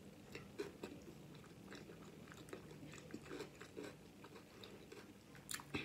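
A person chewing homemade flour tortilla pizza close to the microphone: a faint, irregular scatter of small mouth clicks, with a louder click near the end.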